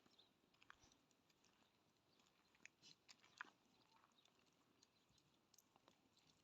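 Near silence, with faint scattered small clicks and crunches at irregular times, the most distinct a little past halfway.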